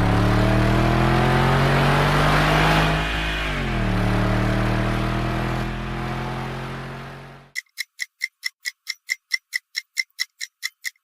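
Car engine accelerating hard, its pitch climbing and then dropping at two gear changes before fading out. Fast, even clock-like ticking follows, about four ticks a second.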